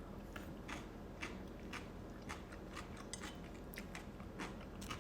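Close-miked chewing: short, soft wet mouth clicks, about two or three a second and unevenly spaced, as food is chewed with the mouth working.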